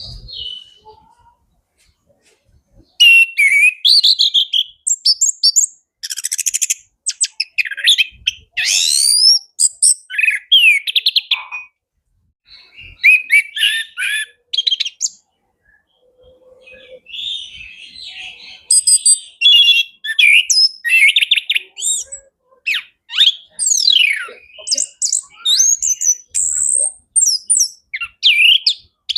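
Chestnut-capped thrush (anis kembang) singing a rapid, varied song full of mimicked phrases ('full isian'), high quick whistles and chirps in dense runs broken by short pauses.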